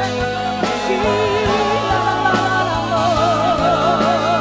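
Live church worship music: slow sustained chords with a voice holding long, wavering notes, and light drum hits at a steady pace.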